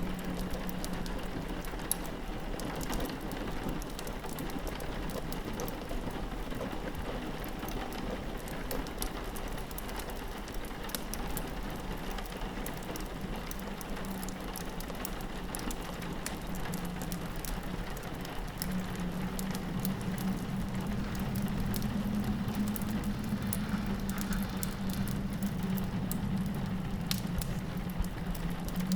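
Rain pattering on a window mixed with a crackling wood fire: a continuous wash of rain noise dotted with small sharp pops. A steady low hum underneath grows louder about two-thirds of the way through.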